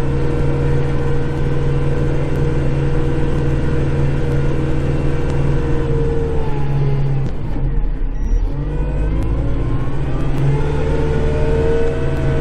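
Kubota Grand L5740 tractor's diesel engine running under load, heard from inside the cab, with a steady whine over it. About two-thirds of the way in the engine note drops and the whine fades out for a few seconds, then the whine comes back rising in pitch.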